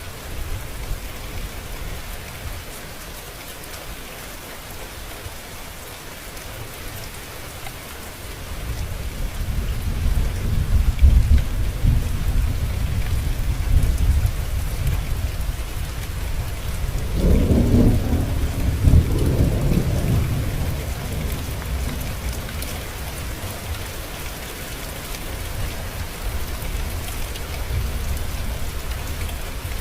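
Steady rain falling, with a long rolling rumble of thunder that builds about a third of the way in, is loudest around the middle, and dies away in the last third.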